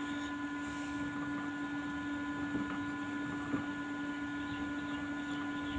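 Steady electrical hum at one low pitch with a few fainter high tones over it, and a couple of faint ticks in the middle.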